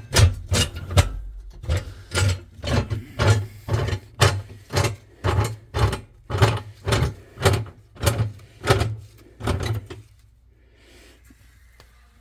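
Repeated sharp knocks with a low thump, about two a second, as a part of the fireplace is worked open; they stop about ten seconds in.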